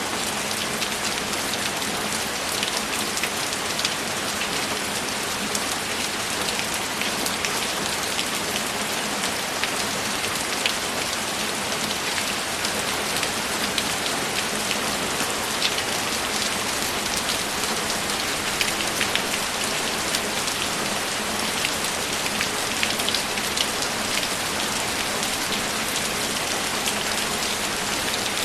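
Steady rainfall, with drops pattering in many small ticks over an even hiss.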